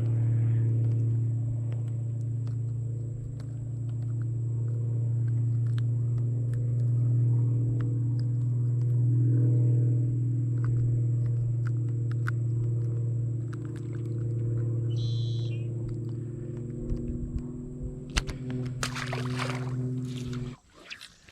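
Boat motor running steadily with a low hum, cutting off abruptly about a second before the end, with a few knocks just before it stops.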